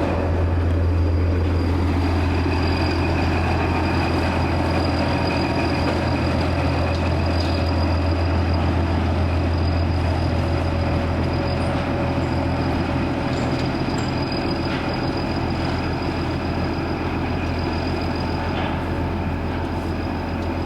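A railway locomotive running at the station with a steady low drone, and a tone that drops in pitch over the first two seconds.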